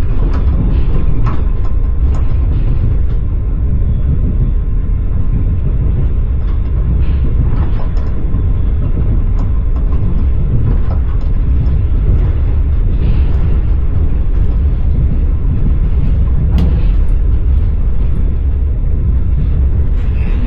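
Passenger train carriage riding along the line, heard from inside: a steady low rumble of wheels on rail with occasional faint knocks from the wheels.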